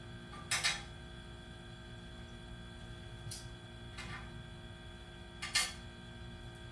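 Steady background hum with several steady tones, broken by four brief sharp noises; the loudest come about half a second in and about five and a half seconds in.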